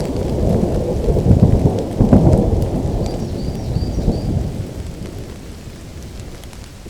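Thunder rumbling over steady rain, the rumble dying away over the last two seconds. A short run of faint high chirps sounds about three seconds in.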